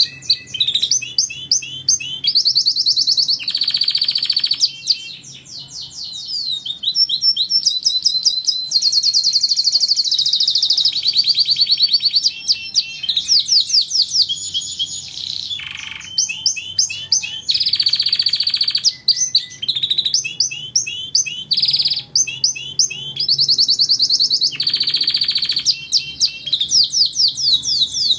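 Domestic canary singing a continuous song of fast repeated trills and rolling chirp phrases, each phrase a quick run of the same note that changes to a new one every second or two.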